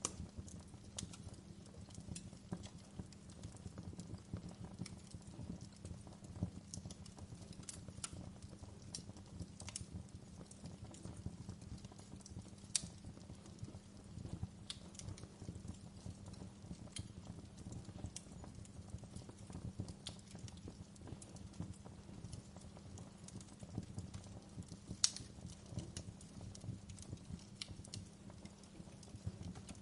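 Wood fire crackling in a fireplace: a steady low rumble of the flames under scattered pops and snaps, with a couple of sharper, louder snaps.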